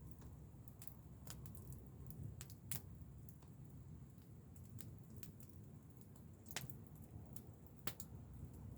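Wood fire crackling, with irregular sharp pops over a low steady rumble; three pops near the middle and end stand out.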